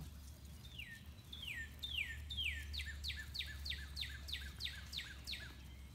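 A songbird singing a long run of clear whistled notes, each sliding down in pitch, starting slowly about a second in and speeding up toward a trill, with a steady low hum beneath.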